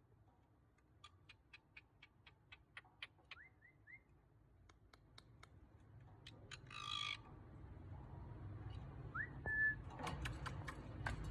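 Pet parrot calling softly: a run of sharp clicks, a few short rising whistles, a brief harsh squawk about seven seconds in, and a short rising whistle held for a moment near the end.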